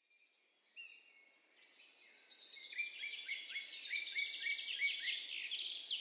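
Birds chirping and singing, faint at first, then a fuller chorus from about two seconds in, with one bird repeating a short falling note about three times a second.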